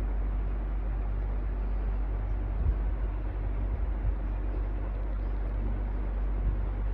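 Electric fan running steadily: a continuous whooshing rush over a low hum, with a few brief low bumps partway through.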